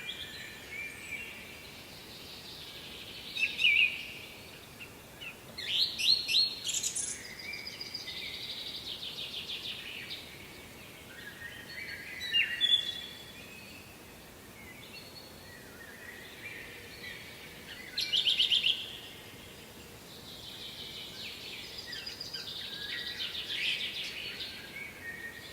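Songbirds singing in repeated phrases, with short loud trills every few seconds and longer rattling runs in between.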